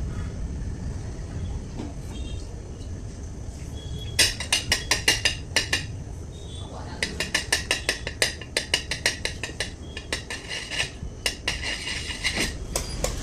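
Rapid clinking of a utensil against a bowl, about six strikes a second, in two runs: a short one a few seconds in and a longer one through most of the second half.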